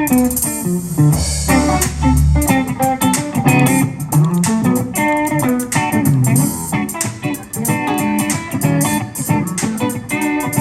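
Live blues band playing an instrumental intro: guitar picking a melody over bass guitar and drums.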